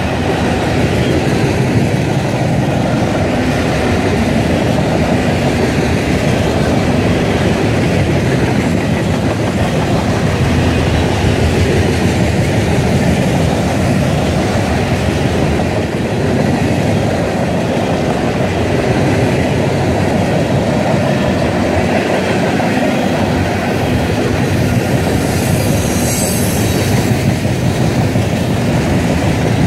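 Loaded coal hopper cars of a CSX freight train rolling past close by: a steady, heavy rumble and clatter of steel wheels on the rails. Near the end comes a brief high-pitched noise.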